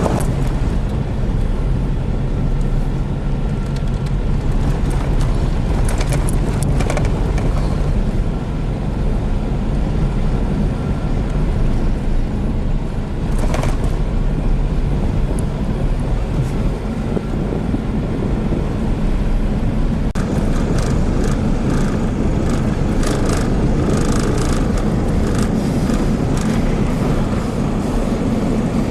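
Car driving: a steady engine and road noise, with short clicks and rattles that grow frequent about two-thirds of the way through.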